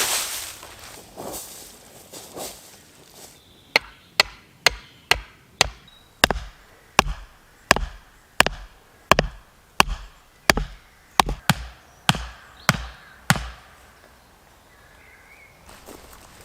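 Repeated blows on wood: a run of about twenty sharp chopping strikes, roughly two a second, starting a few seconds in and stopping a few seconds before the end, with a few softer knocks before them.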